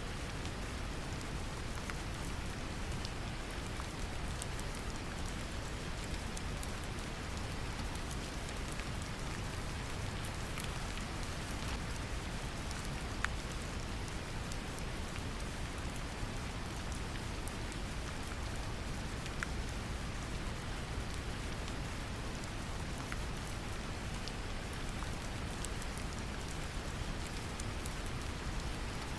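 Steady brown noise, a deep even rumble, mixed with gentle rain falling on a surface, with scattered faint drop ticks.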